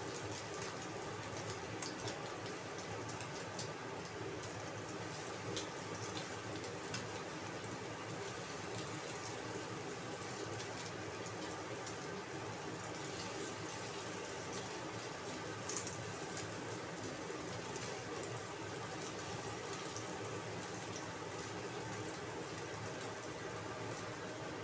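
Egg and dried radish frying in oil in a nonstick wok: a steady sizzle with scattered small crackles and clicks as a spatula breaks up and turns the omelette.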